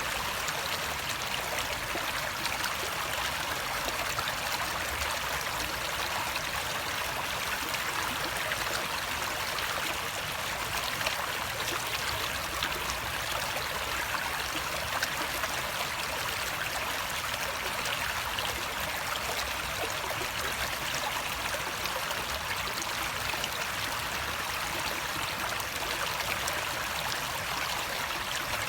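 Water flowing steadily: an even, unbroken rushing sound.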